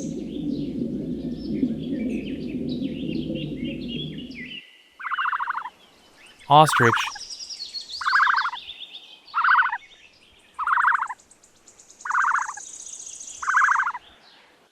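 A steady low rushing noise that cuts off about four and a half seconds in. It is followed by an ostrich giving a series of short, pulsed calls, about one every second and a half.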